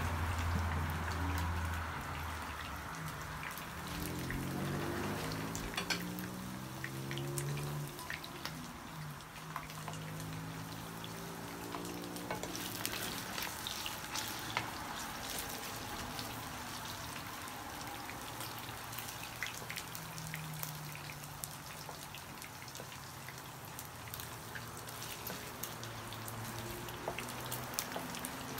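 Cubes of Vietnamese pork pâté frying in hot oil in a nonstick wok, a steady sizzle with scattered crackles and pops while they brown, stirred now and then with a wooden spatula.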